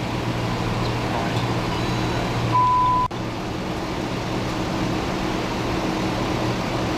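Steady low hum of an idling vehicle engine, with one short, high, pure electronic beep about two and a half seconds in.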